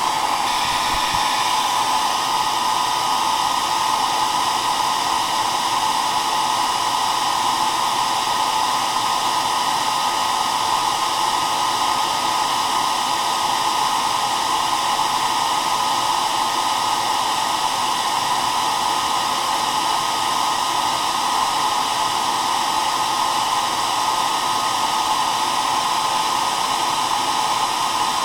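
Hair dryer running steadily: a continuous rushing airflow with a constant motor hum, strongest in a band around the middle of the range.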